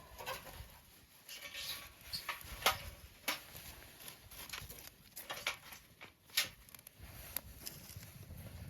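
Wood campfire crackling, with irregular sharp pops and snaps over a low hiss.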